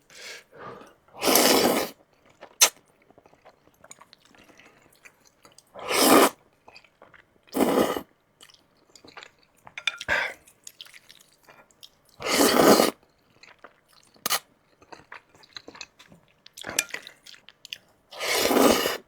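Close-miked eating of mixed noodles: five loud slurps spaced a few seconds apart, with quiet chewing and mouth clicks between them.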